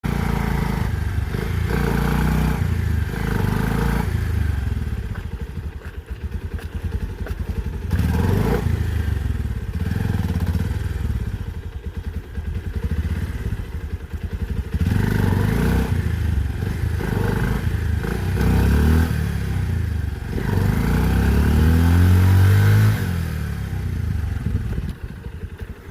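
Bajaj Pulsar 125's single-cylinder engine running through its exhaust, with the throttle opened again and again so the engine speed rises and falls. Near the end comes a longer rev climbing in pitch before it drops back.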